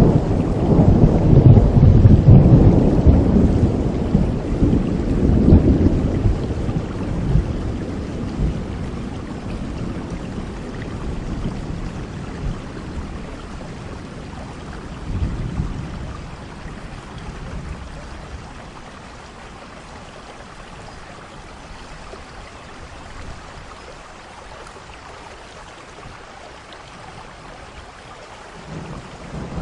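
Thunderstorm: a long roll of thunder rumbles through the first several seconds and slowly fades over steady rainfall, with a smaller rumble about halfway through and another roll of thunder starting near the end.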